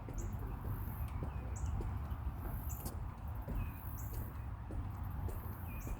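Birds chirping, a short high call repeating about once every second, over a steady low rumble of outdoor background.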